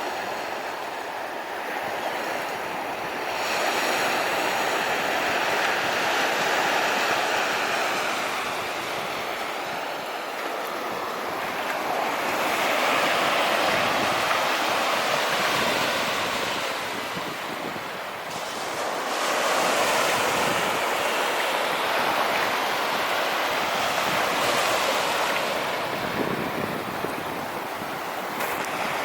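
North Sea surf breaking on a beach, the wash swelling and easing in slow surges several seconds apart, with some wind on the microphone.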